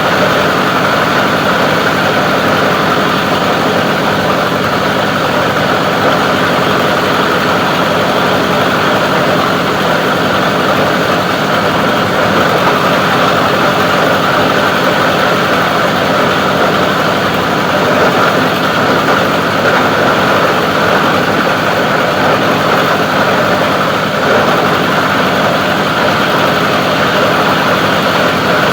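Plastic recycling grinder running steadily without a break, a loud, even machine noise.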